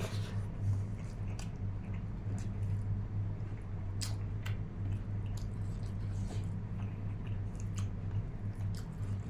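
A person chewing food with the mouth close to the microphone, with wet smacking and clicking sounds, over a steady low hum.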